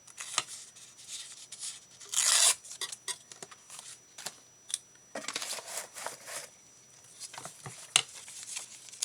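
Paper and small craft items being handled on a desk: paper rustling, loudest about two seconds in and again midway, with scattered light clicks and knocks as things are picked up and set down.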